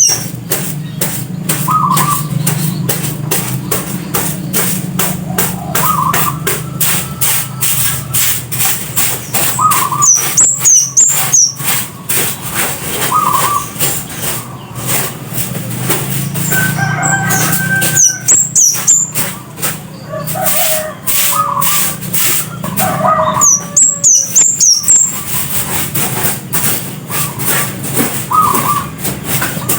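Scarlet-headed flowerpecker (cabean Jawa) calling: a rapid run of sharp ticking notes, broken several times by short bursts of very high, thin notes, over shorter lower notes repeating about every two seconds.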